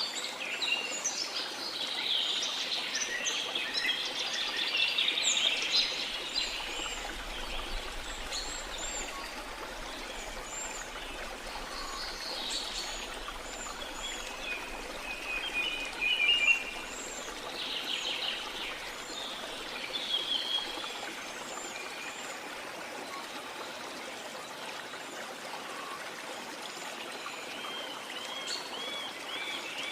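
Small songbirds chirping and twittering in a busy chorus of short, quick notes over a steady wash of sea water. The chirping is densest at the start, thins out through the middle and picks up again near the end.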